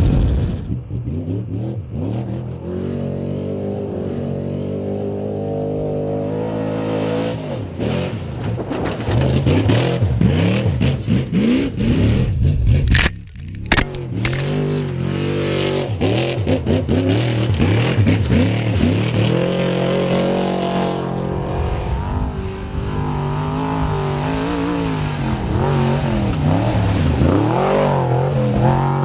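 Off-road race truck engines revving hard, the pitch repeatedly climbing and falling with throttle and gear changes. The sound breaks off briefly about halfway through.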